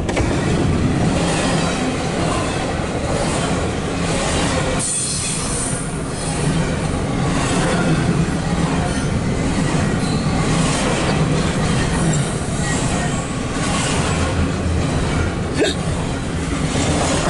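Double-stack intermodal freight train's container well cars rolling steadily past: a continuous rumble of steel wheels on rail.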